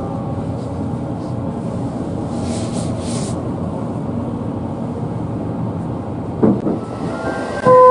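Train running on the rails: a steady low rumble, with a short hiss about two and a half seconds in.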